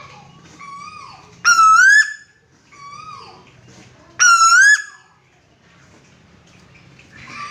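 Red-eyed kuwu bird calling loudly: two loud rising notes, about a second and a half in and again about four seconds in, with softer falling notes between them.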